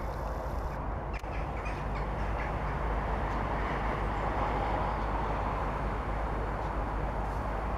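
London Midland multiple-unit train approaching along the track, a steady rumble that swells slightly as it comes closer. A few short calls are heard about a second in.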